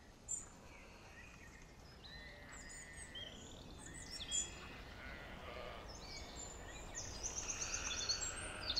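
Small birds chirping and singing: scattered short chirps and whistled notes that grow busier towards the end, with a fast trill, over a faint low background rumble.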